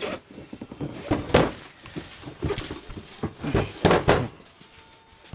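Irregular knocks and clatter of a top-loading washing machine's plastic lid and parts being opened and handled, dying away near the end.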